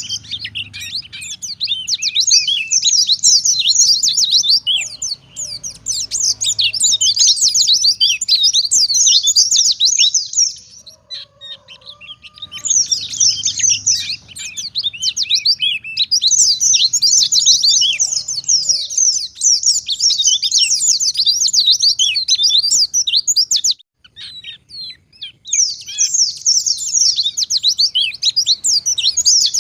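White-eye (pleci) singing a fast, continuous chattering song of quick rising and falling high notes, broken by short pauses twice. This is a wild-type 'ngalas' white-eye in full song, the kind played as a lure to get caged white-eyes singing.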